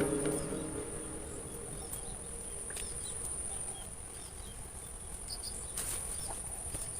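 Insects droning with a steady high-pitched whine, with a few faint short bird chirps over a low rumble of background noise.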